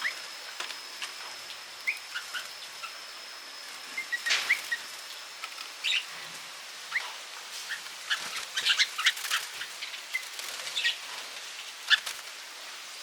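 Small garden birds chirping in short, scattered calls, busier in the second half. A steady thin high tone runs underneath for the first few seconds, then stops.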